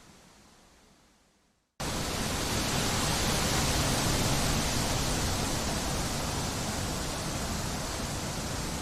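Wind blowing through trees as an even rushing noise, fading almost to silence, then cutting back in suddenly and loud a little under two seconds in and running steady.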